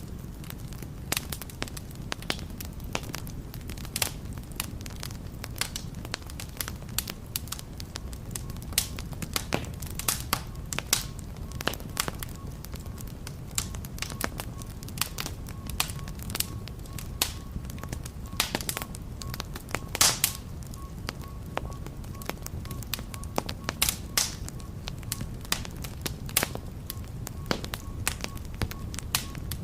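Wood fire burning in a fireplace: a steady low rush of flame with frequent irregular sharp crackles and pops, the loudest cluster about twenty seconds in.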